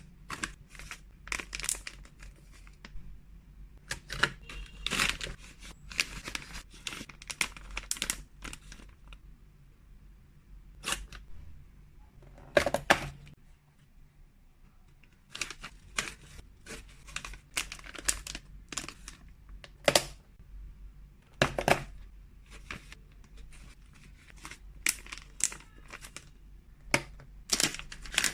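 Plastic packaging crinkling and rustling in short, irregular bursts, from handling while freeze-dried cat treats are portioned and bagged up.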